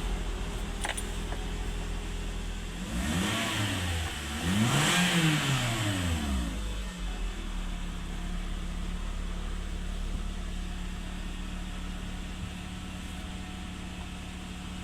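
Toyota Corolla Altis 1.6's four-cylinder petrol engine running on a newly fitted fuel pump: it idles, is revved twice a few seconds in (the second rev higher), and settles back to a steady idle.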